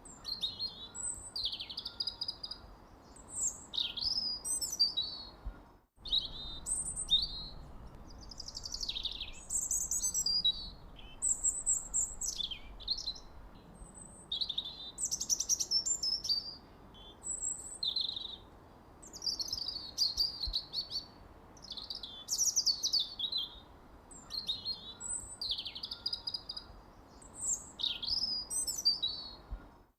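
Several birds chirping and trilling almost without pause, in quick high-pitched calls and short falling sweeps. The sound drops out completely for an instant about six seconds in, like a splice between recordings.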